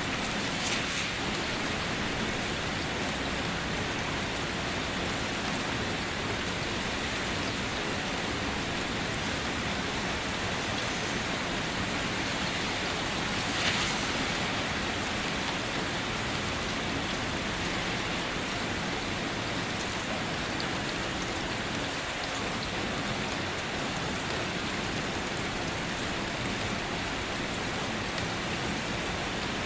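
Steady rain falling at night, an even hiss of drops on surfaces, with a brief louder splash about halfway through.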